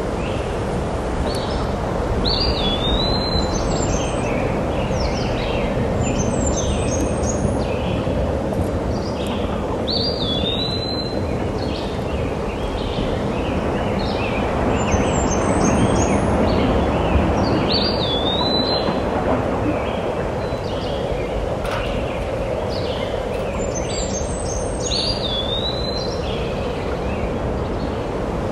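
A bird calling over and over, a short chirp that rises and then falls, coming back about every seven seconds over a steady rushing noise.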